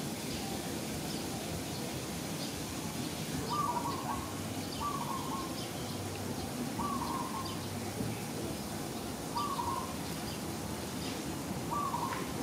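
A bird calling, five short calls, the first a few seconds in, each about two to three seconds apart, over a steady low outdoor background noise.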